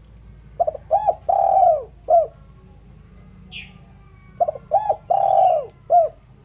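Spotted dove cooing in two similar phrases about four seconds apart. Each phrase is a few quick short notes, a long drawn-out coo and a short final note.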